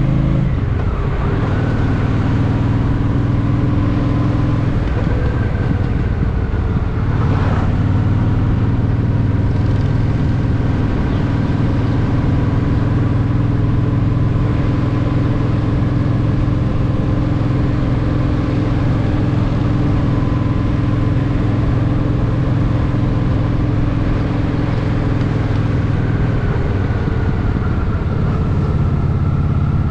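Honda Shadow VT750's V-twin engine running while riding at a fairly steady pace, with brief changes in its note about a second in and again around seven seconds.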